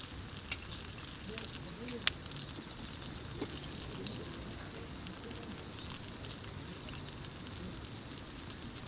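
Steady high-pitched insect chorus, several chirring tones held constant, with a few sharp clicks over it, the loudest about two seconds in.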